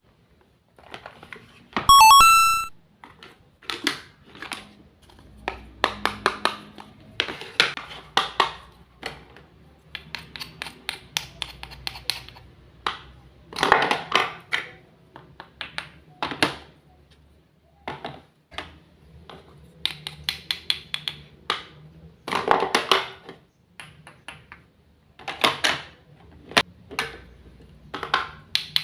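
A short electronic chime of a few quick rising tones about two seconds in. Then a long run of light clicks, taps and knocks in clusters, made by small utensils and toy kitchenware being handled.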